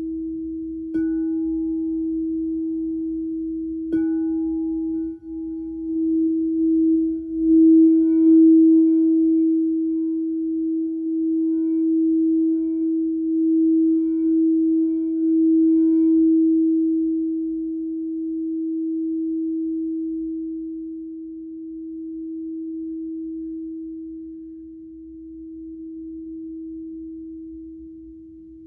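Singing bowl ringing one steady mid-pitched tone. It is struck twice in the first few seconds, then swells and wavers in pulses before slowly dying away.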